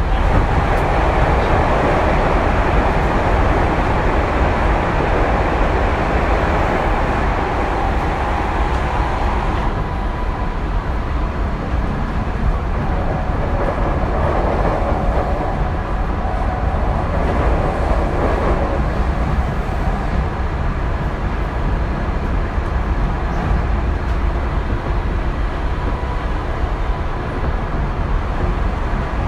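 Tokyu 2020 series electric train running between stations: a steady rumble of wheels on rail, with faint steady tones over it.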